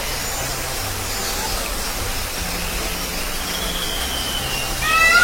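A steady rushing noise, then near the end a peacock gives one loud, wailing, meow-like call.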